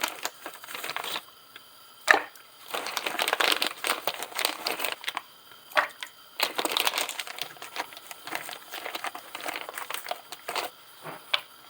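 Crinkling and scraping of plastic packaging being handled in several bursts, with a few sharp clicks, while salt is measured out by the tablespoon.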